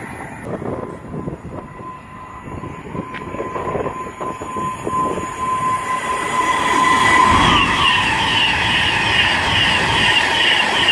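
A Class 390 Pendolino electric express train approaching and passing close at speed. A steady high ringing comes first, then a louder rushing from about seven seconds in, with a rapid repeating beat of about three a second as the carriages go by.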